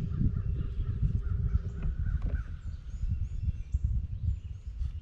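Birds calling over an uneven low rumble.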